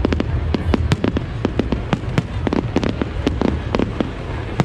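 Fireworks display going off: rapid, irregular bangs and cracks, several a second, over a continuous low rumble.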